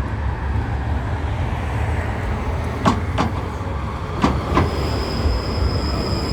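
71-911EM "Lvyonok-M" tram running along the track, heard from inside as a steady low rumble. Two pairs of sharp knocks, about a second apart, come from the wheels crossing rail joints. A steady high whine sets in near the end.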